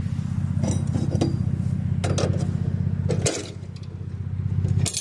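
An engine idling steadily, with several light metallic clinks and clanks from the trailer's weight-distribution hitch bars and chains being handled.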